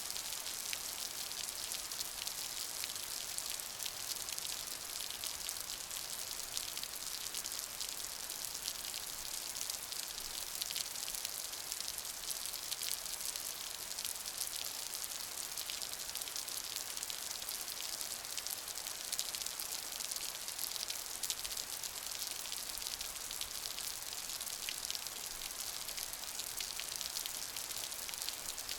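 Steady rain: a dense, even hiss made of countless small drop impacts, bright and high-pitched, with no pauses or changes.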